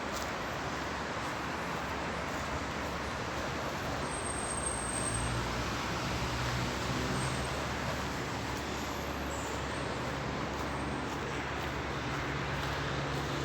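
Steady distant road traffic: a low hum under an even hiss.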